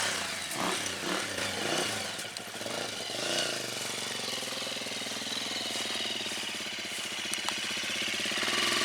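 Motorcycle engine running, its revs rising and falling over the first few seconds, then running more steadily.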